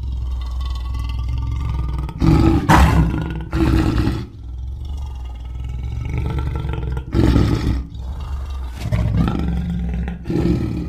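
Lion growling low and steadily, with about five louder roars breaking out over it.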